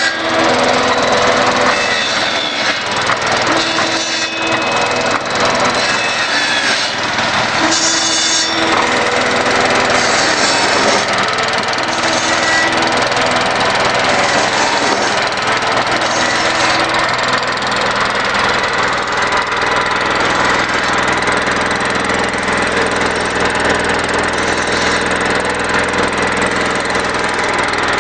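Small engine running on wood gas and driving a generator under load, with a steady hum throughout. Over about the first half, short pitched tones and bursts of clatter come and go on top of it.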